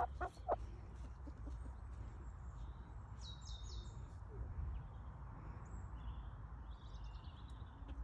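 Faint bird chirps: a quick run of high, falling chirps about three seconds in and a few fainter ones later, over a steady low rumble, with a few short knocks at the very start.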